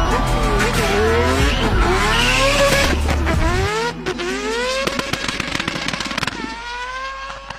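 Rotary (Wankel) engine car accelerating hard, its pitch climbing again and again as it shifts up through the gears. Background music lies under it and drops out about halfway through.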